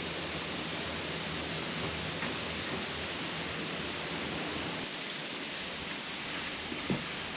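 Steady outdoor background noise with a faint, high insect chirp repeating about four times a second. A low hum underneath fades out about five seconds in, and a single short knock comes near the end.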